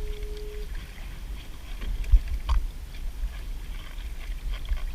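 Low wind rumble on the microphone, with a brief squeak near the start and two sharp knocks a little after two seconds in, from a crab pot and gear being handled in a kayak.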